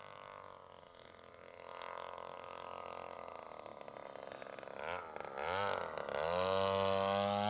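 65cc gas engine of a 1:5 scale RC P-51 Mustang running at low throttle, then revved up in two quick blips about five seconds in and held at high speed, clearly louder.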